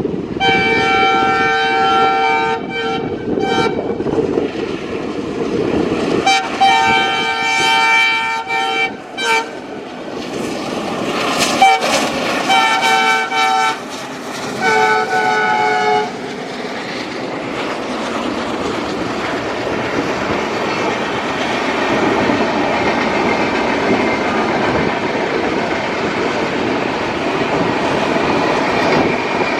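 ALCo WDM3A diesel locomotive's multi-tone horn sounding in four long blasts, over the noise of the passing train. After the last blast only the steady rolling noise and clickety-clack of the LHB coaches going by is left.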